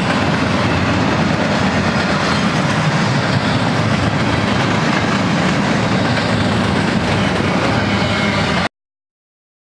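BNSF double-stack intermodal train's well cars rolling past on the rails, a steady rumbling noise of wheels on track. It cuts off abruptly to silence near the end.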